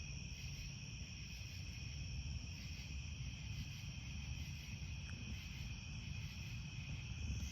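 Steady insect chorus, crickets trilling continuously at several high pitches, over a low outdoor rumble.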